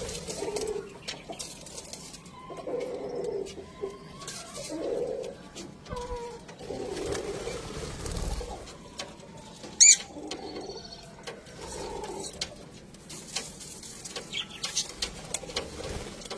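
Budgerigars chattering: low warbling calls every second or two over scattered high chirps and clicks, with one loud, sharp chirp about ten seconds in.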